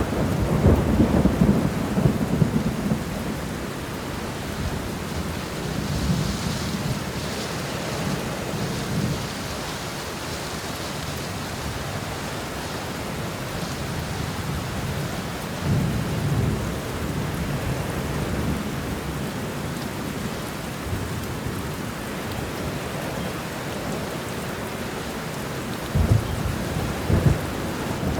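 Steady heavy rain with rolling thunder: low rumbles swell in the first few seconds, again around a quarter and halfway through, and a few sharper cracks of thunder come near the end.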